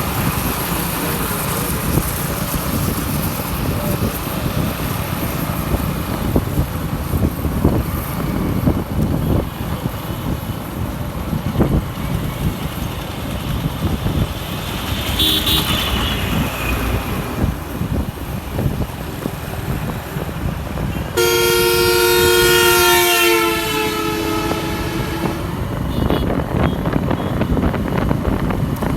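Steady road and wind rumble from riding a motorcycle in traffic. About three-quarters of the way in, a loud vehicle horn sounds for two to three seconds, its pitch sagging slightly, with a brief fainter high tone about halfway through.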